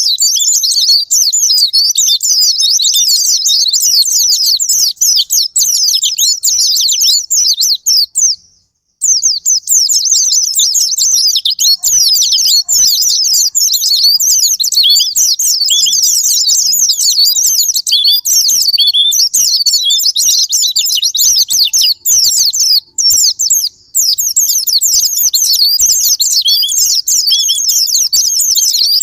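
White-eye (pleci) song: a rapid, unbroken stream of high-pitched twittering, with a brief pause about eight and a half seconds in.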